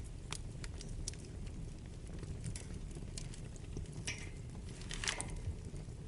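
Wood fire burning in a fireplace: a steady low rumble with irregular crackles and snaps, and two longer hissing pops about four and five seconds in.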